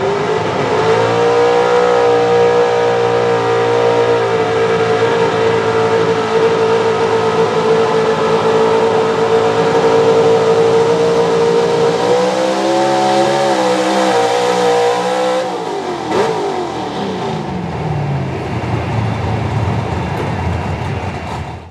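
Pro Stock 4x4 pulling truck's engine at full throttle on a pull. The pitch climbs at the start and holds high and steady for about twelve seconds, wavers, then falls away from about fifteen seconds in as the truck comes off the throttle.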